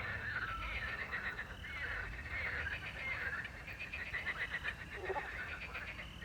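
A chorus of frogs croaking, many calls overlapping in rapid rattling trills, with one lower call near the end.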